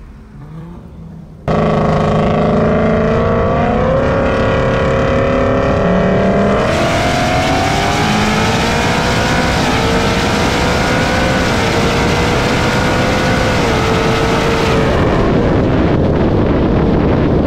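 Supercharged Ford Mustang GT 5.0 V8 starts loud and steady about a second and a half in. About six seconds in it launches hard down the drag strip, its pitch climbing with brief dips as the automatic upshifts, before the engine lets off near the end.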